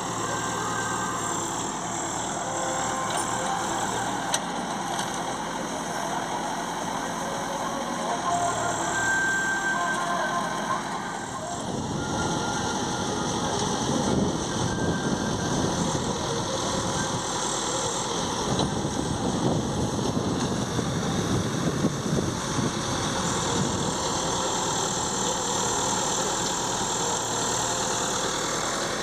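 Heavy diesel engines of a JCB backhoe and a tractor running steadily, growing louder and rougher from about twelve seconds in as they work under load to free a stuck, loaded trolley.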